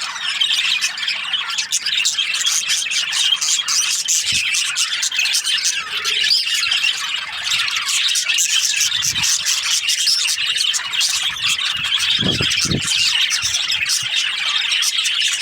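A colony of budgerigars chattering continuously, with many overlapping chirps and squawks. There are a few brief low thuds around the middle and near the end.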